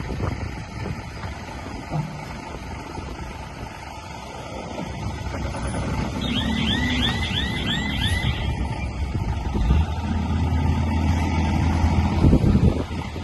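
Diesel engine of heavy earthmoving machinery running under load; the rumble builds through the middle and is strongest near the end. A quick run of about six high chirps comes about halfway through.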